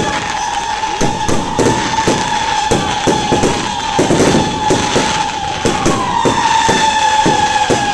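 Fireworks display: a rapid, irregular barrage of bangs and crackles, several a second, over a steady high-pitched tone.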